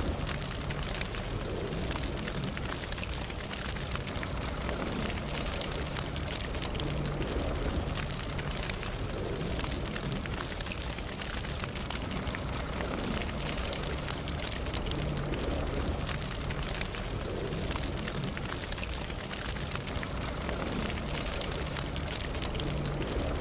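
Campfire burning, with a steady low rush of flames and many small crackles and pops from the burning wood.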